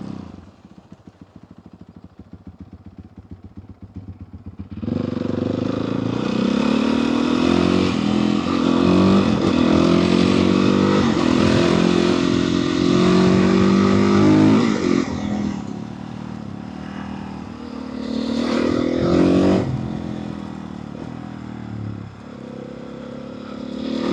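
Motorcycle engine running through its stock exhaust while being ridden. It is low and pulsing for the first few seconds, then about five seconds in it opens up loud, its pitch climbing and dropping through several gear changes for about ten seconds. It eases off, then revs up again briefly twice more, near the end.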